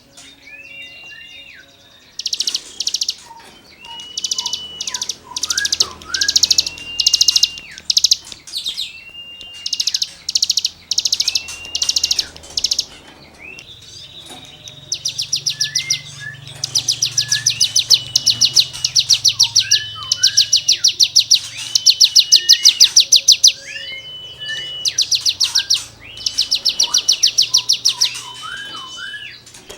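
Hill prinia (ciblek gunung) singing hard: burst after burst of very fast, high, buzzy note-rattles, each about half a second long, with short whistled notes that slide up and down in between. The rattles come thickest and loudest through the middle stretch.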